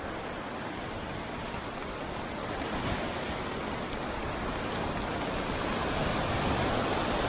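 Heavy tropical rain pouring down steadily as the storm builds toward a downpour, growing a little louder over the few seconds.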